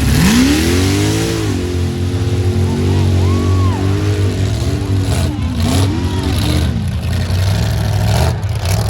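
Mud-bog truck engine revving hard: it climbs sharply in pitch in the first second, holds high with its pitch wavering, and drops back about two-thirds of the way through, over a steady low engine drone.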